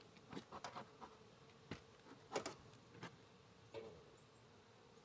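Faint buzzing of honeybees around the hive, with a series of short, soft knocks and rustles scattered through it.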